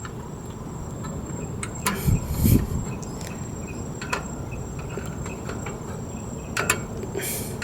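Scattered light clicks and taps of metal brake parts being handled while the wheel-cylinder pistons are pressed in against their spring, with a brief low rumble a couple of seconds in, over a steady faint high-pitched whine.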